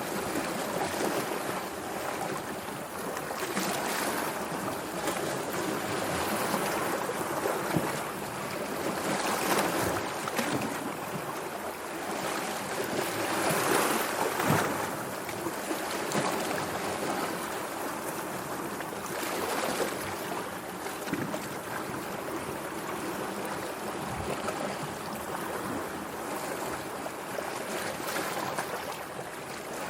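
Sea waves washing and splashing in a continuous rush of water that swells and eases every few seconds.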